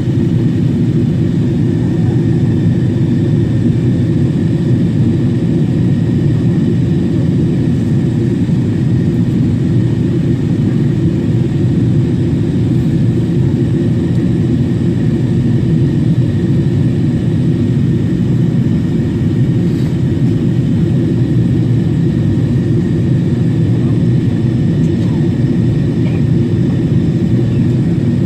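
Boeing 777-300 airliner in flight: a steady, unbroken roar of engines and airflow, heaviest in the low range, with a faint high whine held above it.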